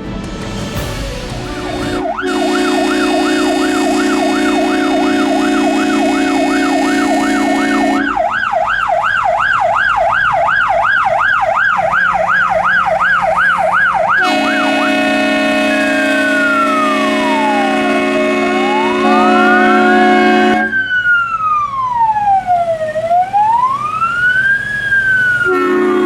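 Electronic siren switching through its tones: a fast warble, then a faster yelp, then slow rising and falling wails, with a steady low tone sounding under parts of it.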